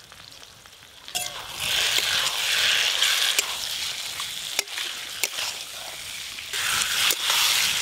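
Potato, cauliflower and pea curry sizzling in a metal wok while a metal spatula stir-fries it in the spice masala. The sizzle starts about a second in, and the spatula gives several sharp clacks against the pan.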